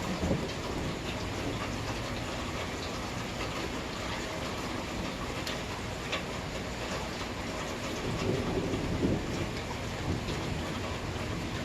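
Steady rain falling, with scattered drops ticking close by. A low rumble of thunder swells just after the start and again about eight to nine seconds in.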